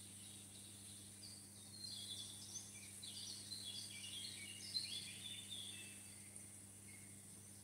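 Faint birds chirping in short, scattered calls over a steady low hum and hiss.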